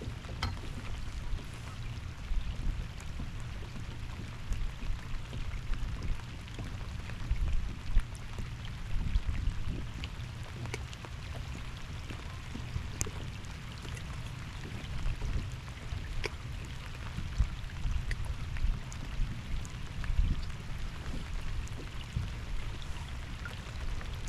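Water splashing and lapping around a bass boat, over a low uneven rumble, with scattered small ticks.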